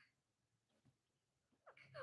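Near silence, then near the end faint parrot calls begin, short squawks with quick pitch glides.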